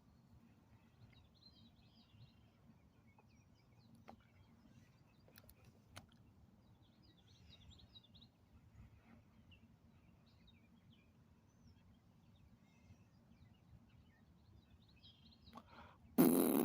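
Faint bird chirps over a low, steady background hum, with a few soft clicks and a sudden loud burst of noise near the end.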